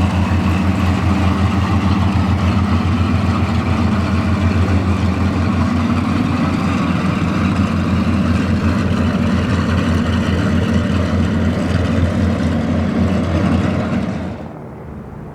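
Lockheed P-38 Lightning's twin Allison V-12 engines running steadily, with an even low pulsing beat. The sound drops off sharply near the end.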